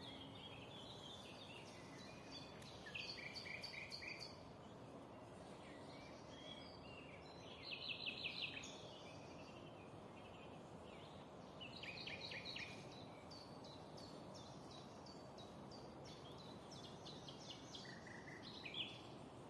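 Songbirds singing short, rapid trilled phrases every few seconds, the loudest about eight seconds in, over a faint steady background hiss.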